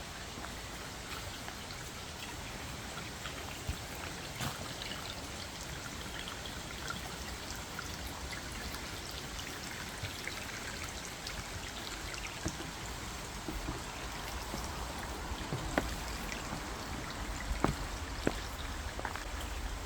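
Steady outdoor hiss of a forest walk, with scattered light footsteps on the path that come more often near the end.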